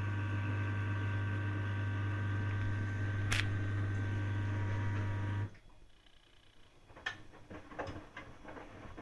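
Hoover DYN 8146 washing machine humming steadily, then cutting off abruptly about five and a half seconds in. Faint scattered clicks and knocks follow.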